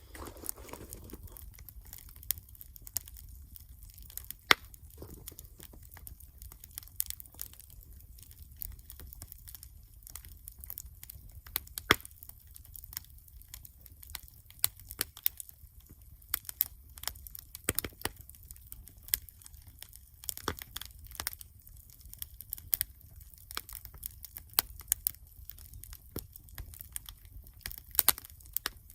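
Wood campfire crackling, with irregular sharp pops and snaps, a few of them loud, over a low steady rumble.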